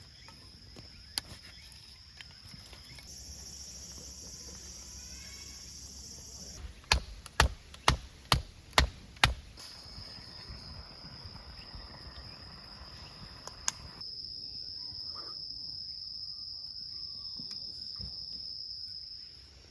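Insects chirring in a steady high tone, with six sharp knocks in quick succession about a third of the way through.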